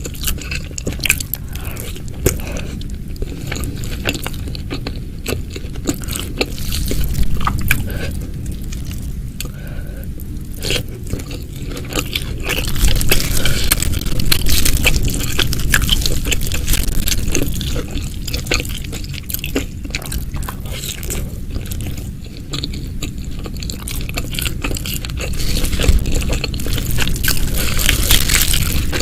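Close-miked eating sounds: biting, crunching and chewing food, with many quick clicks packed close together. It gets louder about halfway through and again near the end.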